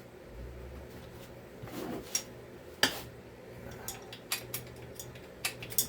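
Metal tools and small chainsaw parts clinking and clicking as they are handled during a teardown: a scattering of sharp clicks, the loudest about three seconds in, over a low steady hum.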